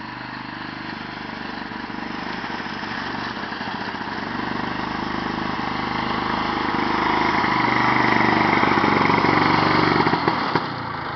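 Rat-rod vintage Ski-Doo snowmobile engine running, growing steadily louder for about eight seconds, then dropping off sharply near the end.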